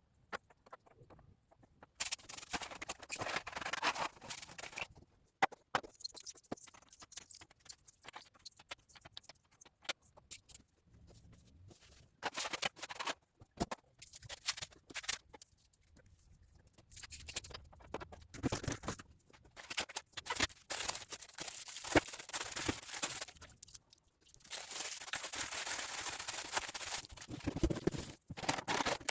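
Loose beads and small hard pieces clicking, rattling and scraping on a tabletop as they are handled and sorted, with scattered sharp taps and several longer stretches of scraping.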